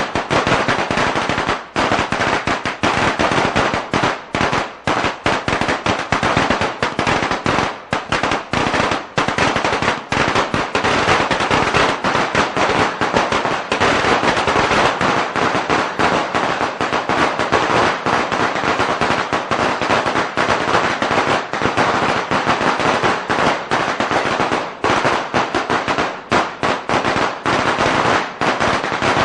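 A long string of firecrackers going off, a rapid, continuous crackle of sharp bangs with no pause.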